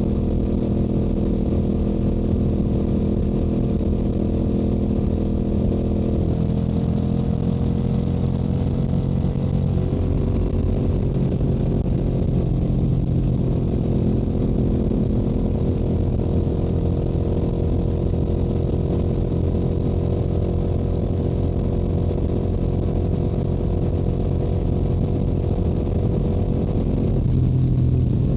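Stock Yamaha R7's parallel-twin engine and exhaust running under way, a steady drone whose pitch shifts a few times, around six, ten and twenty-seven seconds in, over a constant rush of wind noise.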